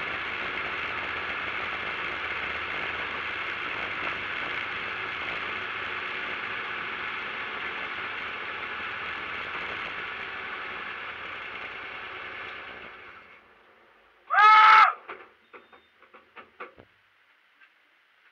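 Cabin noise of a racing VW Beetle with its engine running, a steady mid-pitched drone that dies away about 13 seconds in as the engine stops. A second later comes one short, loud pitched call whose tone rises and falls, followed by a few light clicks.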